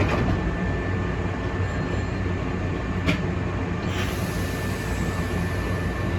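Hankyu electric train heard from on board: a steady low hum and rumble with a faint steady high tone, and a few sharp clicks at the start, about three seconds in and about four seconds in.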